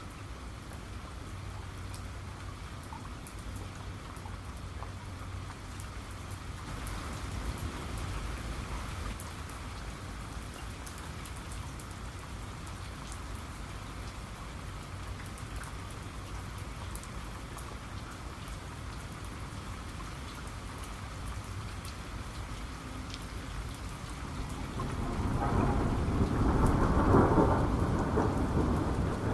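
Steady rain falling, with scattered drop ticks. Near the end a loud rumble of thunder swells up.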